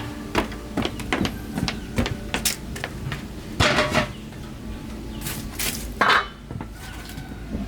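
Dishes and utensils knocking and clinking at irregular intervals, with a few short scraping or splashing bursts, as food is prepared.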